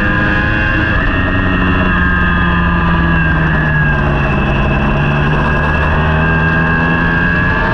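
Racing superbike engine running hard at high revs, pitch held fairly steady with a slight dip through the middle, over a constant rush of noise.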